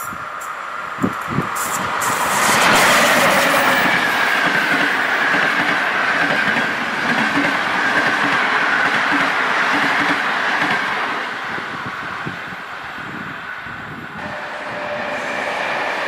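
Electric locomotive-hauled passenger train passing close by. Two sharp clicks as the wheels cross a rail joint, then a loud, steady rush of coaches rolling by with clickety-clack over the joints. Near the end the sound changes abruptly to a more distant train.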